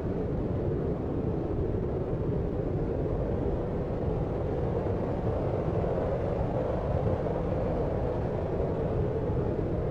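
Steady, deep sleep noise: an even, muffled rumble with no hiss on top and no separate events.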